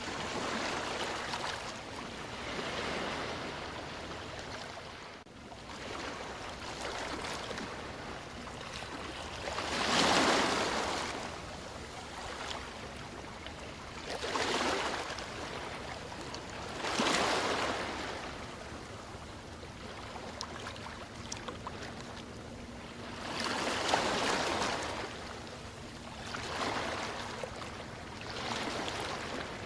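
Sea waves washing in and falling back, a steady wash of surf with a bigger swell every few seconds.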